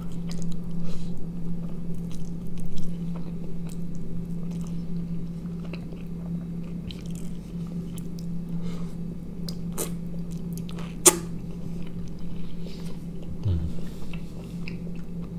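Close-up mouth sounds of a man biting and chewing a thin flatbread wrap filled with sausage, tomato, cheese and sauce: small irregular wet clicks and crackles, with one sharp louder click about eleven seconds in. A steady low hum runs underneath.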